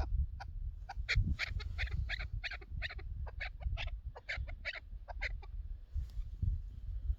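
Chukar partridge calling a quick run of short, sharp clucking notes, about three to four a second, fading out about five seconds in, over a low rumble.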